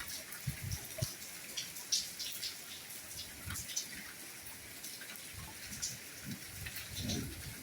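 Steady rainfall, a soft hiss dotted with close individual drops ticking, and now and then a duller low thud of a drop on a nearby surface.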